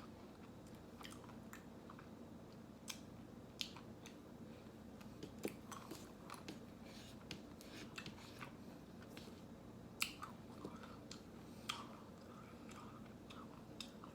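Faint, close-miked eating sounds: irregular chewing and biting with sharp wet mouth clicks, as ice cream is eaten. The loudest click comes about ten seconds in.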